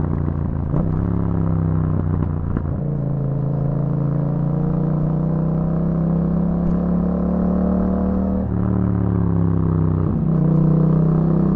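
Yamaha MT-07's 689 cc parallel-twin engine running through an Akrapovic exhaust while riding. Its note is steady, dropping and rising in pitch a few times as the throttle changes.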